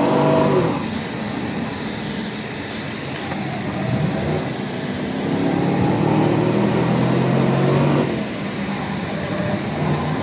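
Chevrolet Camaro engine pulling hard through a lap. The note falls away about half a second in as the driver lifts for a corner, then climbs again, drops sharply about eight seconds in, and builds once more near the end.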